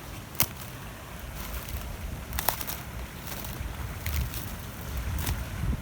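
Wind buffeting the microphone in a low rumble, with three short sharp clicks or crunches.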